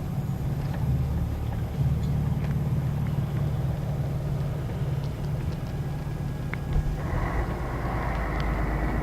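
Scania K113 city bus's straight-six diesel engine running with a steady low drone, heard from inside the bus, with small rattles and clicks. About seven seconds in, a broader rushing noise comes in and the sound grows a little louder.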